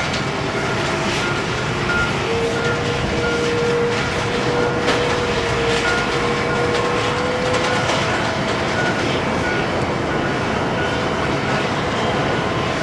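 Jet airliner engines running at low power: a steady rush with a few thin whining tones held over it.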